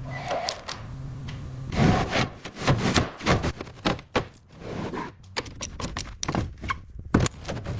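Irregular knocks, thunks and scraping of hand work on rusty metal car parts, over a low steady hum that stops about two seconds in.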